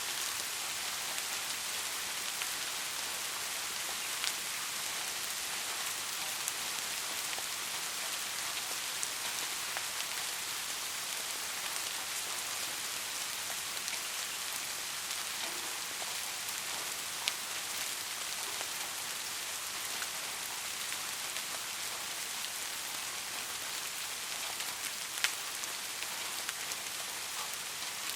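Steady rain falling, an even hiss with now and then a single louder drop striking close by.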